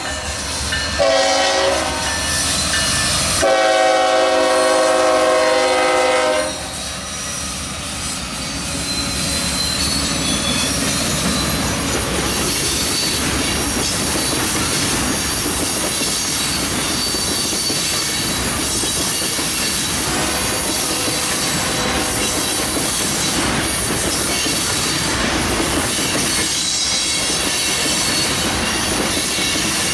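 Diesel freight locomotive horn sounding a multi-tone chord: a short blast about a second in, then a longer one that ends about six seconds in. A long string of tank cars then rolls by, wheels clacking over rail joints with occasional high wheel squeal.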